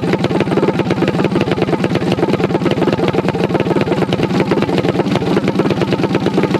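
Minibike engine idling steadily close by, its firing pulses even and unchanging.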